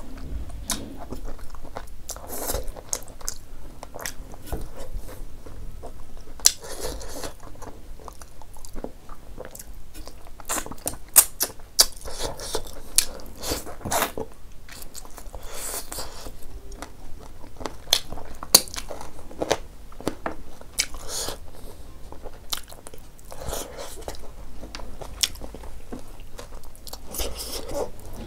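Close-miked chewing and lip smacking of hand-fed mouthfuls of rice and lentil dal, a steady run of soft mouth noises broken by many short, sharp clicks.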